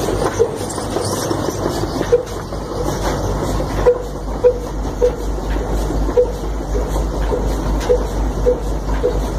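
Ruston-type desi 'kala' engine, a slow-speed single-cylinder diesel, running with a low hum and regular exhaust beats, about 1.7 a second.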